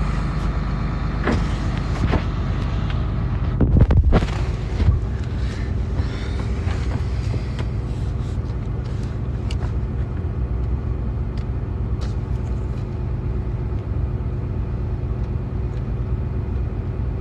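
Truck engine running steadily, heard from inside the cab as a low hum. A few short knocks stand out, the loudest about four seconds in.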